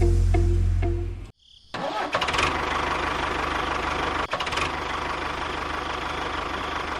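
A motor starts after a brief silence about a second and a half in and then runs steadily. A deep hum under music cuts off just before it.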